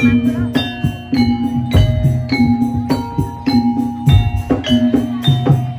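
Javanese gamelan music for a jaranan horse dance: struck bronze metallophones ring out a quick run of notes over low hand-drum strokes, keeping a steady beat.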